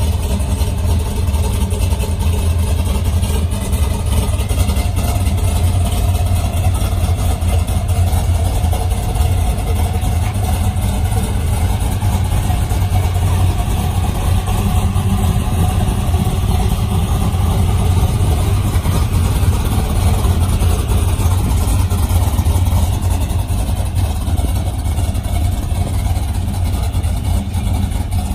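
1975 Ford F100 pickup's engine idling steadily, a low rumble with no revving.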